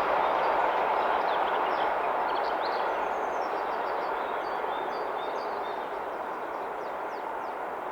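A train's rolling noise fading steadily as it moves away along the line, with birds chirping over it.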